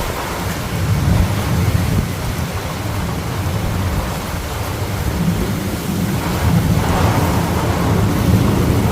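Thunder rumbling on and on over steady rain, swelling a little near the end.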